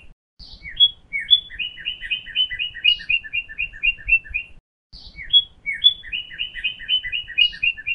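A small songbird singing: a few high, rising notes, then a fast run of paired chirps at about five a second. The phrase plays twice, with a short pause before each.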